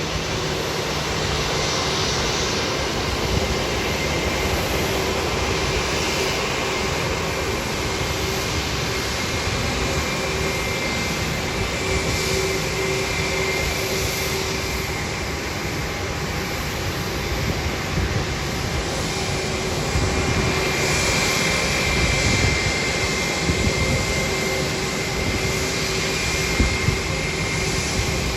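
Jet airliner engines running at ground idle: a steady rumble with a constant whine over it, as the aircraft taxi.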